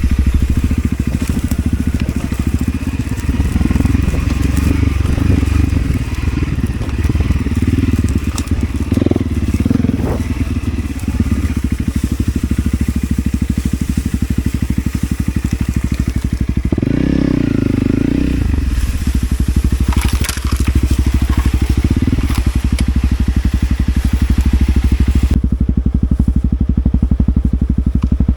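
Motorcycle engine running steadily on a light off-road ride, with a louder surge in the engine sound about two-thirds of the way through.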